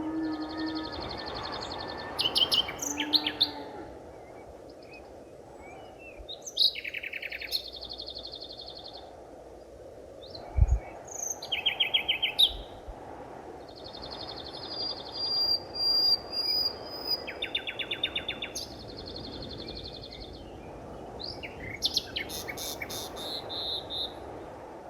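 Forest birds calling on and off: short rapid trills and chirps, high-pitched, repeated from several directions over a steady low rushing background. A single brief low thump about ten seconds in.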